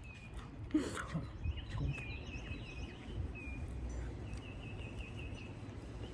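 Small birds chirping: runs of short, quick, repeated high chirps, over a faint low rumble of outdoor background noise.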